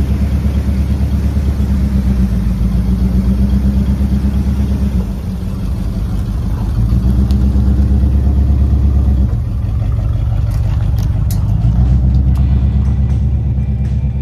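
The 1969 Ford's engine running, getting louder and quieter a few times as its speed changes, with a few light clicks near the end.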